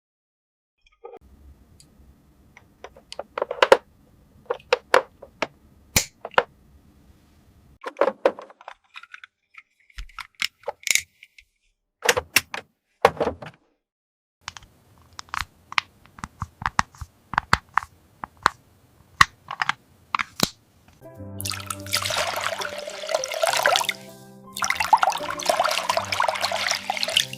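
Small plastic clicks and taps from a toy play sink and mini fishing set, with a steady low hum at times. About three-quarters of the way through, water starts running from the toy faucet into the sink, stops briefly once, then runs again.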